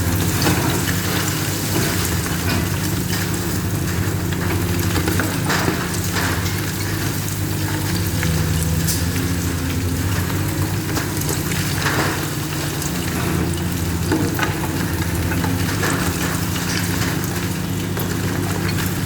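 Heavy demolition machine's engine running steadily, with a constant crackling, crunching noise over it and scattered sharper cracks.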